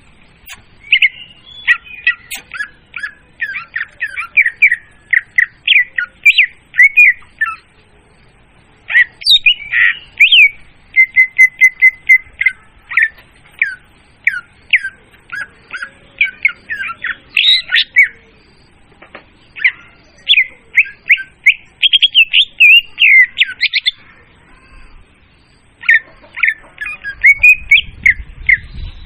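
Murai daun song played as a bird-hunting lure call: fast strings of sharp chirps and slurred whistles, in long phrases broken by short pauses.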